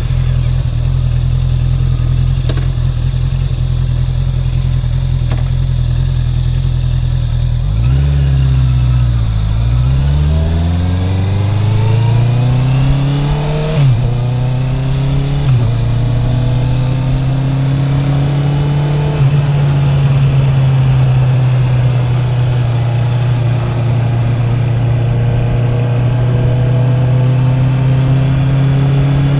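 Honda CB650R's inline-four engine through an Akrapovic exhaust, running at a steady speed, then dropping and climbing in pitch as the bike accelerates. Two sudden pitch drops in quick succession are upshifts, made with the quickshifter. It then settles to a steady cruise and starts rising again near the end.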